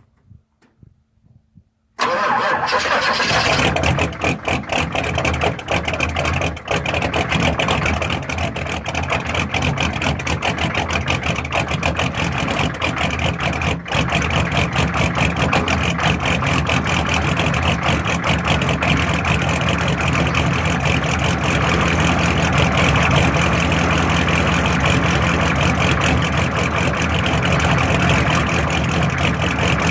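6.5-litre GM/Detroit Diesel V8 turbo diesel cold-starting, not plugged in: it catches suddenly about two seconds in and runs a little unevenly for a few seconds, then settles into a steady diesel clatter at idle.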